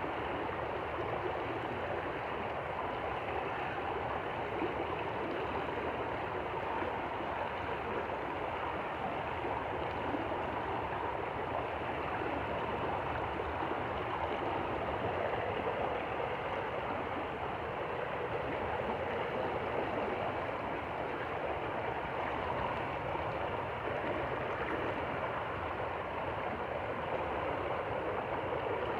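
A stream flowing and gurgling steadily over rocks.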